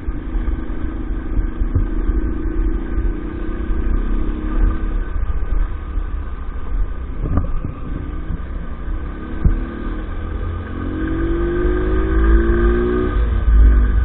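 The small engine of an EAYS Pro 50cc motorbike running while it is ridden, under a heavy low rumble. The engine note climbs as it speeds up about eleven seconds in, then drops back near the end, with a couple of sharp knocks along the way.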